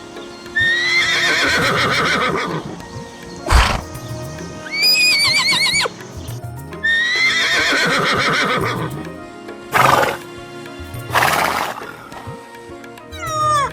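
Horse whinnying twice, each a long shaky neigh that falls in pitch, with short breathy bursts between, over steady background music.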